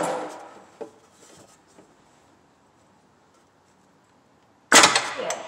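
Scraping and rubbing noises: one burst that fades over the first second, a click, then a louder sudden scrape near the end.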